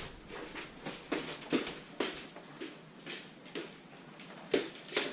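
A dozen or so short scratchy scraping strokes at an uneven pace, about two a second: old adhesive pads being scraped and picked off the back of a laptop's screen lid.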